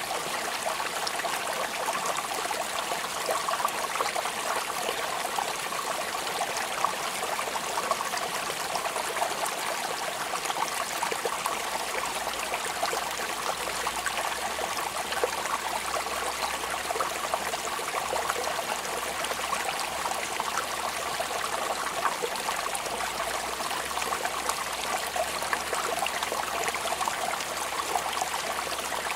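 Steady rain falling, a dense, even patter of drops with a running-water trickle.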